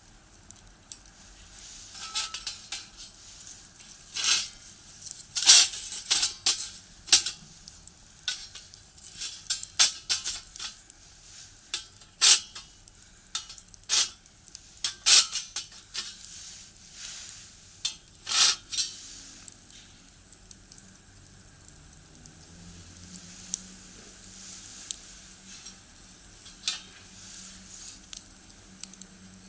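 Firewood crackling as it burns in a box stove: sharp pops and snaps, frequent for the first twenty seconds or so, then sparser. A faint low hum rises in pitch underneath near the end.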